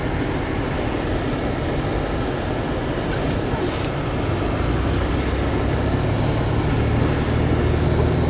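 Steady low rumble of a four-wheel-drive vehicle driving on a snow-covered road, engine and tyre noise heard from inside the cabin. A low engine hum grows stronger about halfway through, and a few short hisses come and go.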